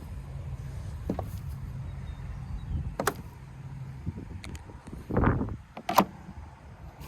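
A few sharp metallic knocks and clanks, with a short scraping sound between the last two, from working on a riding mower's deck. A low steady hum underneath stops about four seconds in.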